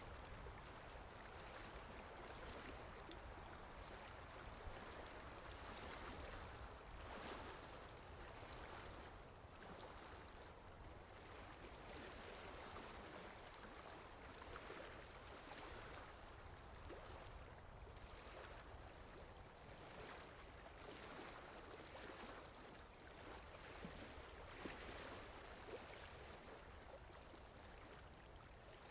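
Soft, steady rainfall: a faint, even hiss that swells and eases slowly, with a few scattered drops ticking.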